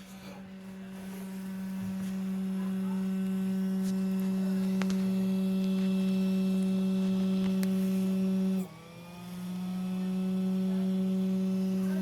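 Faulty cooling fan giving a loud, steady humming drone, the bad fan noise. The drone swells over the first two seconds. Near the end it cuts down abruptly and sags in pitch, then builds back up over about a second.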